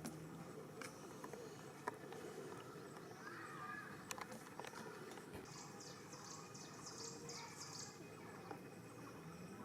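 Faint outdoor ambience with a few soft clicks, and a rapid run of about ten high chirps from a bird or insect about halfway through.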